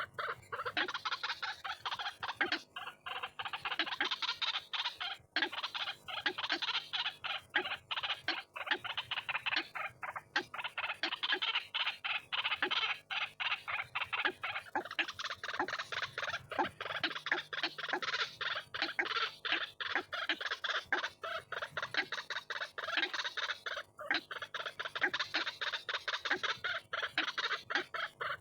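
White-breasted waterhen calls played back as a trapping lure recording. A dense run of rapid repeated notes continues without a break, swelling and fading in loudness.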